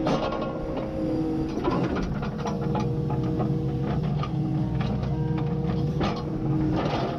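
Kubota KX080 excavator working: a steady diesel drone with a hydraulic whine that dips slightly in pitch about a second in, and scattered sharp knocks and cracks.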